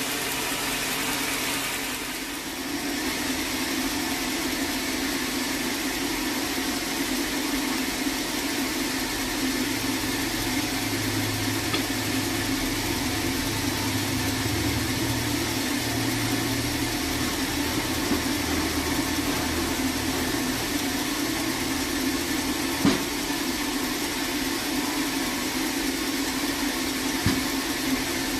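Sawmill machinery running at a steady drone, with a low hum swelling in the middle and two sharp knocks near the end.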